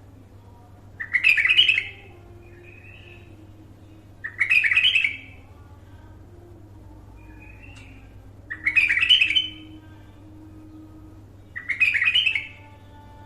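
Bulbul singing: four short, loud phrases spaced about three to four seconds apart, with fainter calls between them, over a steady low hum.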